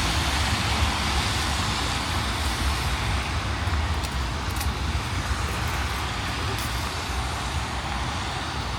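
Steady city street noise: a low rumble of road traffic under an even hiss, with a few faint ticks about four and six and a half seconds in.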